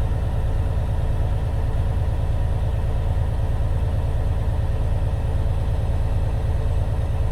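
Diesel engine of a 2016 Freightliner Cascadia semi truck running steadily at raised idle during a parked DPF regeneration, with a low, even rumble.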